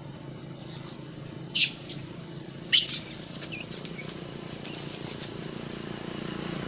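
Two short shrill squeals from a monkey, a little over a second apart, followed by a few fainter squeaks, over a steady low rumble.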